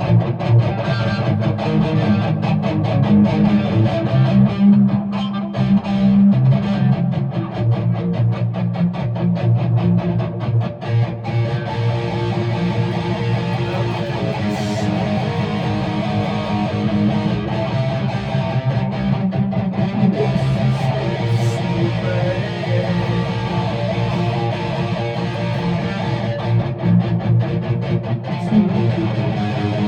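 Guitar playing an instrumental passage: rhythmic strummed chords that give way, about twelve seconds in, to sparser, ringing notes.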